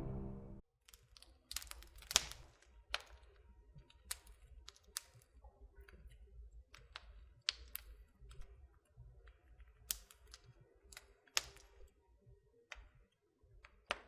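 Faint, irregular small clicks and taps over a low room hum, as the tail of music fades out in the first half second.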